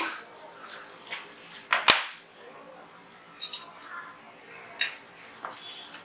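Sharp metallic clicks and clacks of a Zigana 36 9mm pistol's parts being handled and fitted together during reassembly, about half a dozen separate strikes with the loudest about two seconds in.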